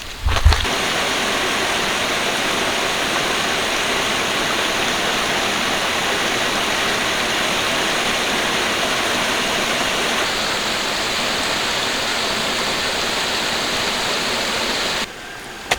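A steady rush of running water, starting just after a low thump and cutting off suddenly near the end.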